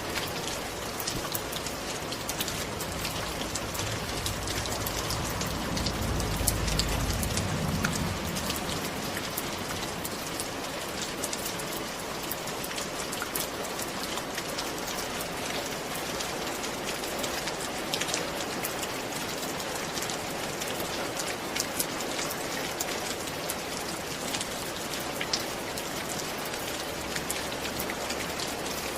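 Steady rain falling, with many separate drop hits. There is a low rumble from about four to eight seconds in.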